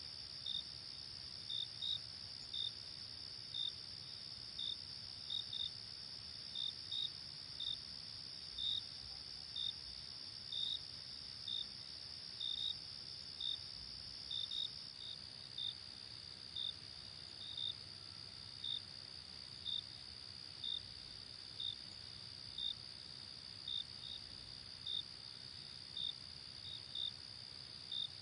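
Night insects chirping, cricket-like: short high chirps repeat irregularly, about one or two a second, over a steady high-pitched drone that drops slightly in pitch about halfway through.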